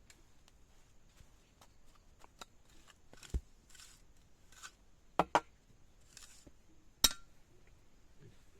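Scattered knocks and taps of hard objects being handled, with a few short scrapes: a quick double knock a little past five seconds in and the sharpest knock about seven seconds in.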